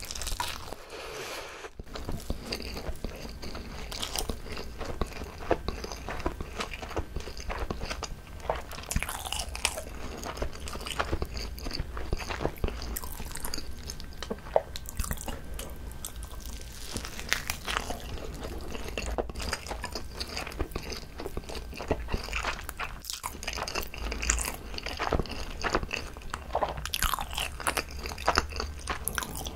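Close-miked biting and chewing of a whole, uncut seaweed-wrapped gimbap rice roll: a steady run of soft crunches and wet, sticky mouth clicks.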